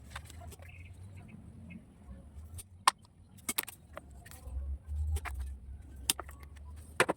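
Several sharp, separate metallic snips, as of bonsai pruning shears cutting back branches, over a low steady rumble.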